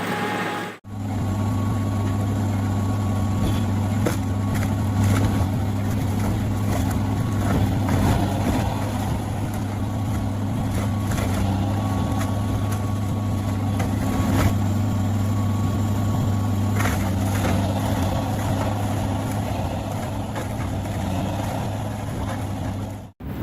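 DW3060 shredder's diesel engine running steadily under load, a constant low hum, with scattered knocks and cracks as material is broken up.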